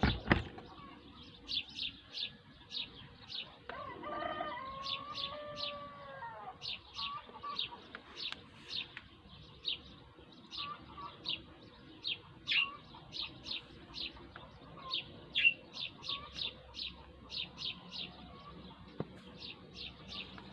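A small bird chirping over and over, short high chirps about two a second. A rooster crows once about four seconds in.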